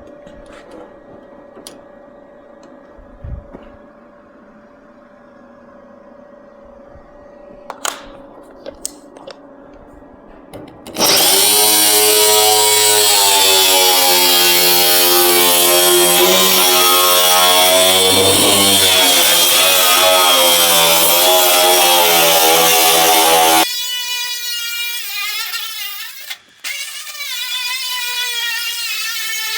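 A power tool runs loudly on sheet metal for about twelve seconds, its whine wavering in pitch. It starts about eleven seconds in, after a quieter stretch with a few clicks, and stops abruptly. A softer wavering pitched sound follows near the end.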